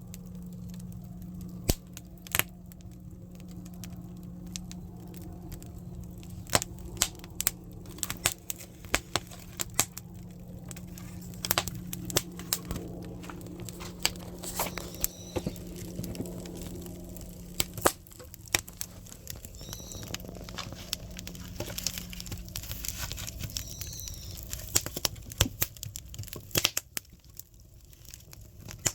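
Firewood burning in a traditional Korean earthen kitchen stove (buttumak), crackling with irregular sharp pops and snaps. Under it runs a low steady hum that stops about three-quarters of the way through.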